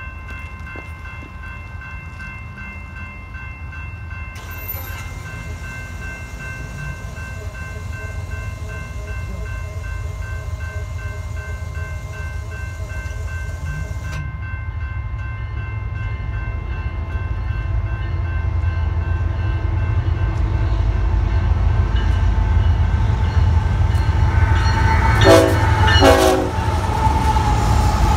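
Grade-crossing bell ringing steadily while a BNSF freight train approaches, its low rumble growing louder. The locomotive gives two short horn blasts near the end, and the lead diesel locomotives roll through the crossing.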